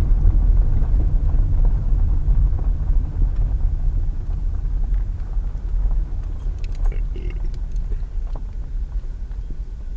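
Car driving, heard from inside the cabin through a dash cam: a low road and tyre rumble that eases off steadily as the car slows. There are a few light clicks past the middle.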